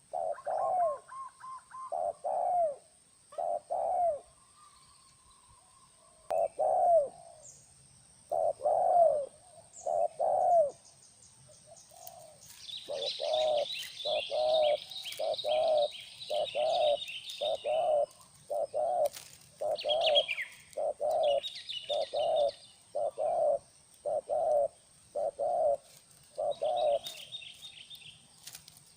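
Spotted doves cooing: short low coo notes, a few spaced seconds apart at first, then a steady run of coos less than a second apart from about halfway in. Small birds chirp and trill at a higher pitch over them.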